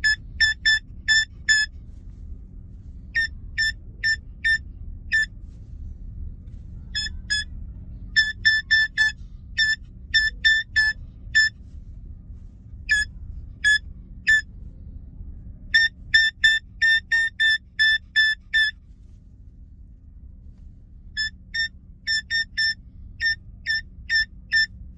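Moluccan cockatoo mimicking electronic phone beeps: short, same-pitched beeps in irregular runs of a few to about ten, with pauses between runs, over a steady low hum.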